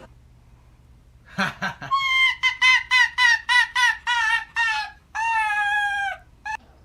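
An animal calling: a quick run of about eight short, high pitched notes, then one long held note that drops off at its end.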